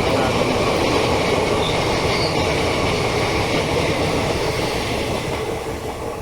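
Passenger train coaches passing at speed: a steady rumble and clatter of steel wheels on the rails, easing off slightly near the end.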